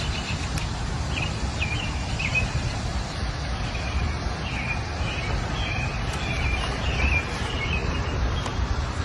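Suzuki GSX-R600 inline-four engine idling steadily through an M4 carbon exhaust, a low even rumble with no revving, while birds chirp now and then.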